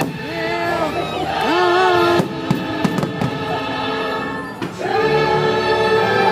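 Orchestral show music with a choir singing, played over loudspeakers, with a few sharp firework bangs about two seconds in and again near the five-second mark.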